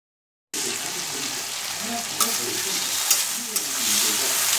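Salt-and-turmeric-coated prawns sizzling in hot oil in a kadai, starting suddenly about half a second in. A spatula stirs them, knocking against the pan a few times.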